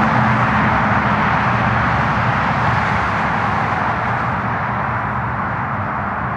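Steady freeway traffic noise, a continuous rushing wash with a low hum beneath, easing slightly toward the end.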